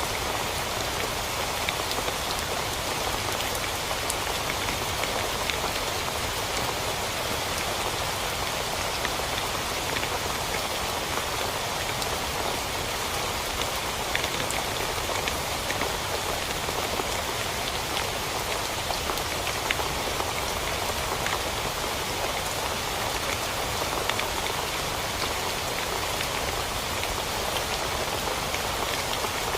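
Steady rain falling on a tent, with many sharp, close drop hits over an even hiss.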